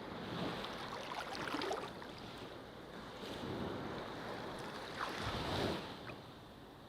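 Ocean surf washing onto a beach: three swells of breaking-wave noise in a few seconds, each with a fizzing wash of foam. The last one is the loudest.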